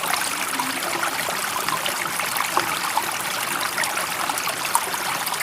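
Steady running water, an even rushing hiss with fine trickling and bubbling detail throughout.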